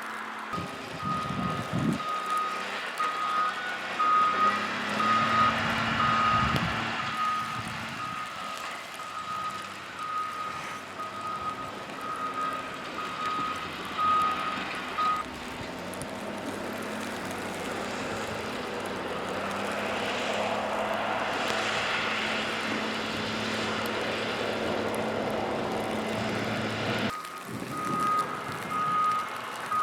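A heavy truck's reversing alarm beeping over and over on one pitch, over a running engine; it stops about halfway through and starts beeping again near the end. In between, traffic passing on the road swells and fades.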